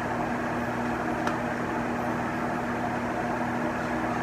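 Steady machine hum with a constant low tone under an even background noise, and one faint click about a second in.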